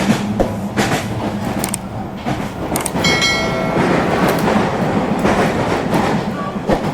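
Thomas & Friends toy train running on a plastic playset track, with a steady hum and repeated clicks and rattles. A brief high-pitched tone sounds about three seconds in.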